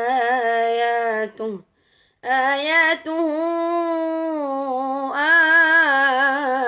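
A man reciting the Quran in melodic tajwid chant, drawing out the word "āyātuhu" in long, held, ornamented notes. There is a brief pause for breath about a second and a half in.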